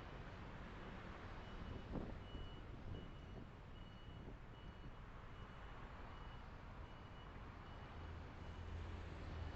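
Electronic warning beeper sounding a single high-pitched tone, about two short beeps a second for several seconds, over the low rumble of road and engine noise. There is a short knock about two seconds in.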